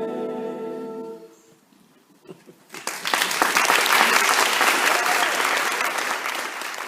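The a cappella group's final held chord fades out over the first second and a half, then after a short hush the audience breaks into loud applause that carries on to the end.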